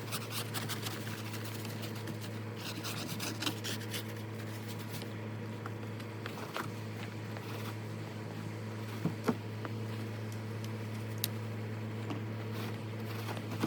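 Irregular scratching and scraping over a steady low hum, with a few sharp ticks.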